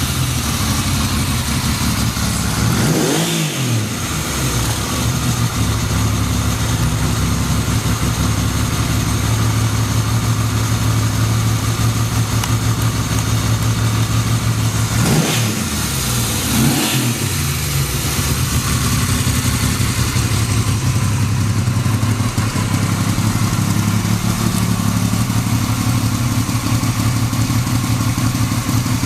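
1980 Yamaha XS750 Special's air-cooled inline three-cylinder engine idling steadily. It is revved up and let fall back once about three seconds in, and twice more around the middle.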